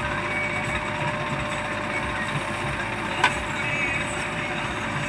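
Heavy diesel machinery running steadily at a working dig, with one sharp knock about three seconds in.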